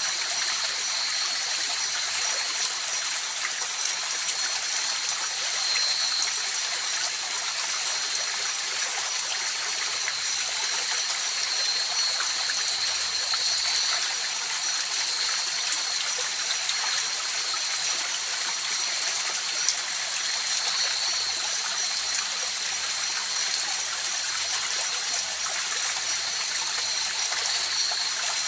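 River water flowing steadily with an even rushing and trickling noise, over a steady high-pitched drone.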